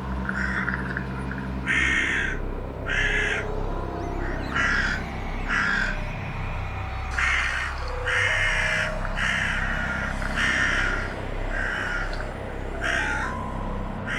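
Crow caws, about a dozen at uneven intervals, over a low pulsing synthesizer drone with a few stepped tones, as part of an electronic sound piece.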